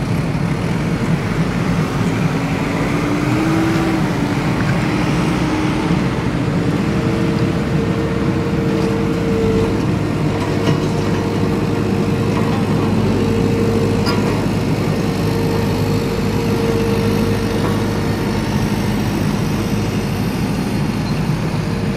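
A heavy vehicle's engine running steadily, like a truck's, with a low hum and a faint tone that rises briefly about three to four seconds in.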